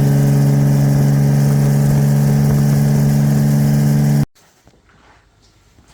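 Vehicle engine running at a steady speed, one even drone that cuts off abruptly about four seconds in.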